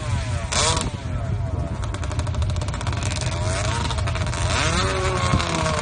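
Drag-racing motorcycle engine making a sand drag pass, its pitch falling and climbing several times as it revs through the run.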